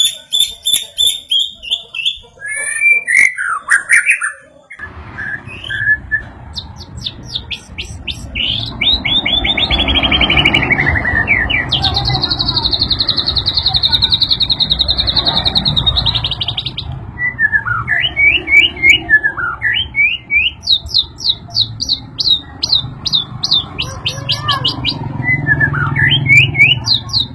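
White-rumped shama (murai batu) singing a varied song of whistles, rapid series of chirps and a long buzzy trill in the middle, over a low steady background noise that starts a few seconds in.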